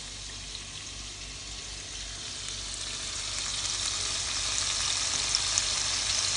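Floured cubes of liver frying in very hot oil in a pan: a steady sizzle with fine crackling that gradually gets louder, with a couple of sharper pops near the end.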